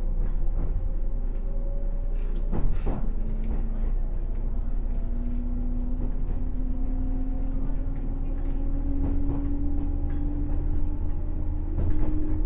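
107 series electric multiple unit running on the rail, its motor whine rising slowly in pitch as the train gathers speed over a steady low rumble. A single sharp knock, like wheels over a rail joint, comes about two and a half seconds in.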